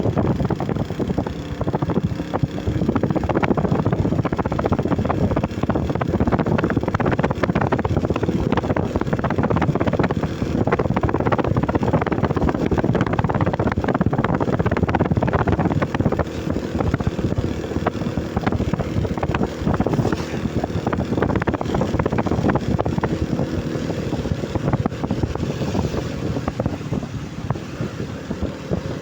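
Heavy rain falling steadily: a dense, loud patter of drops.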